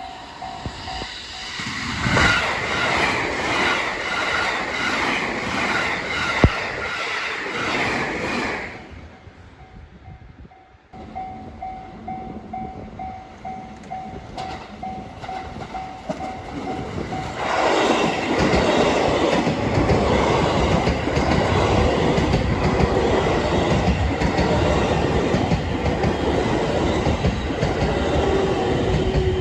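Trains passing over a Japanese railway level crossing, wheels clattering rhythmically over the rail joints. One train goes by about 2 seconds in and a second starts about 17 seconds in and runs on. Between them the crossing's warning bell beeps steadily.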